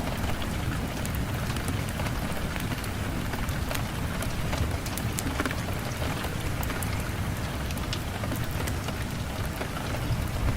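Steady rain with a low rumble underneath and many small sharp crackles and pops scattered through it, as from a wood fire burning.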